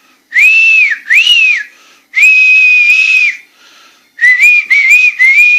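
A person whistling: two short notes that rise and fall, then one long held note, then a quick run of short wavering notes near the end.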